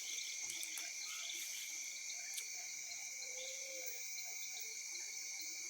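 Evening chorus of crickets and frogs: insects trill steadily at two high pitches while frogs call here and there, with one short call about three seconds in and a few faint clicks.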